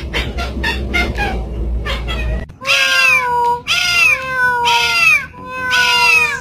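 A cat meowing loudly three times in long, drawn-out calls, starting about two and a half seconds in.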